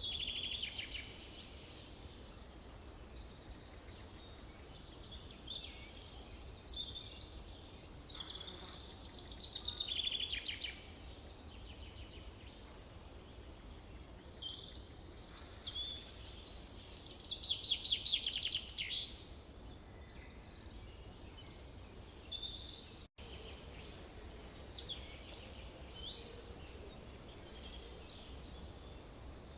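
Songbirds calling and singing in a forest, many short chirps and whistles from several birds, with two longer, louder rapid trills near the middle and about two-thirds of the way through, over a steady low background rumble. The sound drops out for an instant a little past three-quarters of the way.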